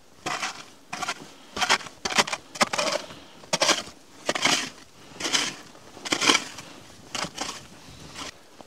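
Snow and ice crunching in a run of separate, irregular crunches, roughly one a second.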